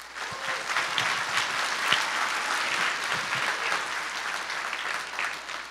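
Audience applauding, a dense patter of many people clapping that starts just after the call for applause and tails off near the end.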